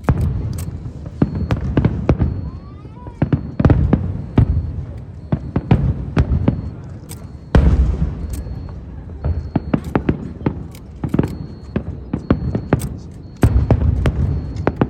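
Aerial fireworks bursting: several deep booms, with dense sharp cracks and crackling between them. A short rising whistle comes about two to three seconds in.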